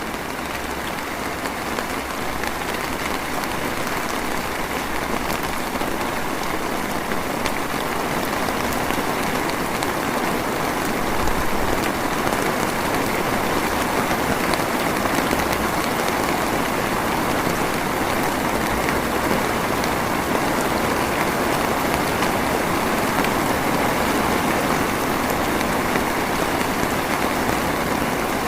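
Steady drizzle of rain, an even hiss of many small drops, growing slightly louder over the first few seconds.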